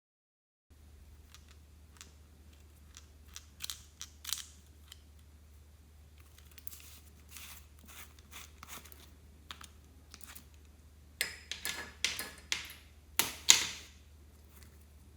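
Slime being worked by hand: scattered sticky clicks and small pops, with a run of louder crackling pops near the end.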